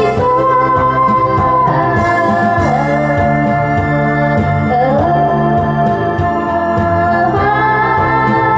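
Instrumental electronic keyboard music with an organ-like sound playing long held notes that slide from one pitch to the next, over a steady drum-machine beat.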